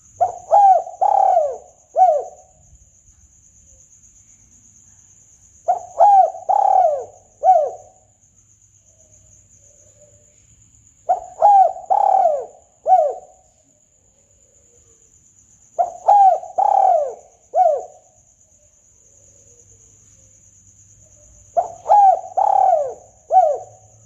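Spotted dove (tekukur) singing its cooing song: a phrase of three or four coos about every five and a half seconds, five times, with the middle coo drawn out longest. A steady high-pitched hiss runs underneath.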